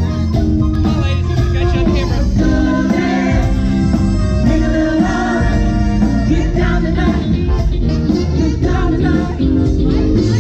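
Live band playing a song with a singer.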